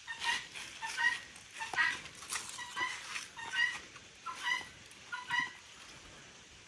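Farmyard fowl giving a string of short, pitched calls, roughly one a second, about eight in all, which stop about five and a half seconds in.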